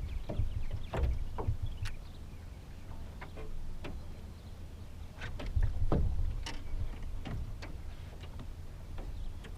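Small fishing boat on the water: a steady low rumble with scattered light ticks and knocks, the loudest knock about six seconds in.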